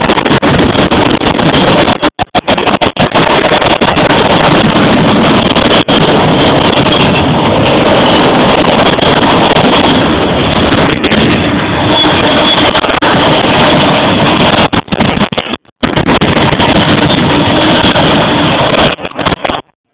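A long train passing close by at speed: loud, continuous rumbling and clatter, with wind from the passing cars buffeting the microphone. The sound drops out sharply for a moment a few times.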